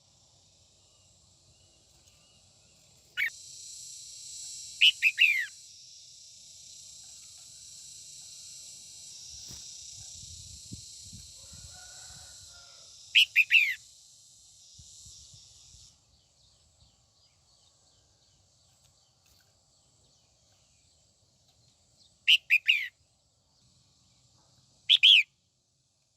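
Female red-whiskered bulbul calling: short, bright bursts of quick falling notes, five bouts with long gaps between them. A steady high hiss runs behind the calls for about the first two-thirds.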